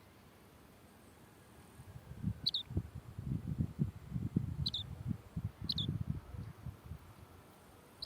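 A small bird chirping: four short high chirps a second or two apart, over low rustling and thumps.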